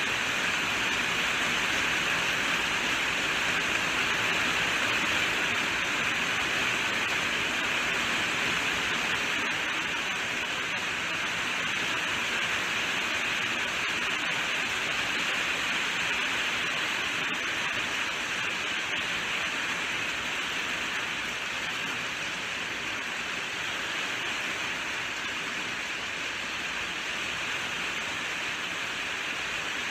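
Steady rainfall, an even hiss of drops with no distinct impacts, easing slightly in loudness over the second half.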